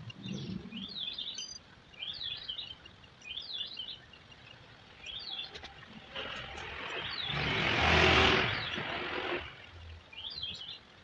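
A bird chirping in short repeated phrases, about one a second. Midway a rushing noise swells up, peaks as the loudest sound, and dies away over about three seconds.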